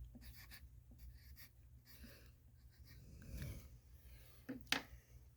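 Faint rustling and scratching of a used paper vacuum bag being handled and folded, with two short sharp clicks near the end.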